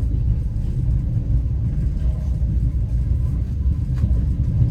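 Steady low rumble of a moving passenger train heard from inside the carriage, with a single faint click about four seconds in.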